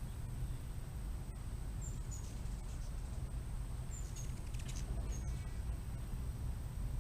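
A few short, high chirps from a small bird or animal, some in quick pairs, over a steady low rumble and a thin high whine.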